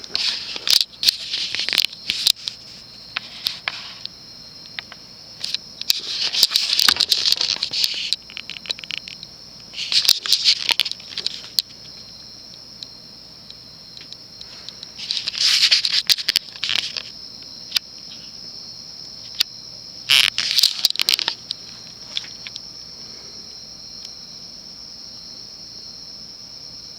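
Crickets trilling steadily, with five short bursts of scraping and rustling handling noise.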